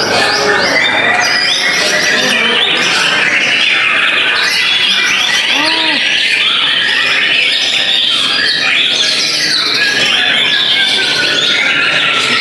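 Many white-rumped shamas (murai batu) singing at once in a contest, a dense, unbroken chorus of overlapping whistles, trills and chattering phrases.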